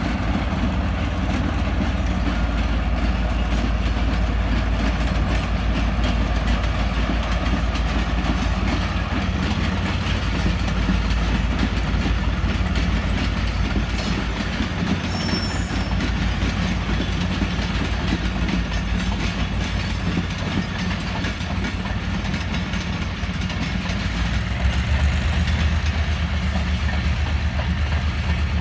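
GMCU-15 diesel locomotive running as it hauls a passenger train past, with the coaches' wheels clattering on the rails. A deeper low rumble grows louder near the end.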